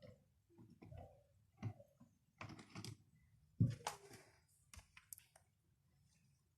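Small objects being handled on a desk: irregular taps, clicks and short rustles, with one louder knock about three and a half seconds in.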